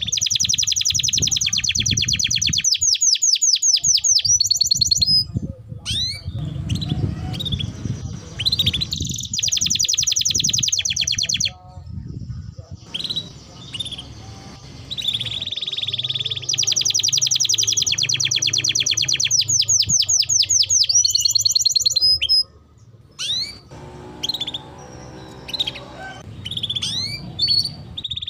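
Domestic canary in full, continuous song: long, loud phrases of very fast rolling trills and rapid repeated high notes mixed with single chirps, with short pauses between phrases.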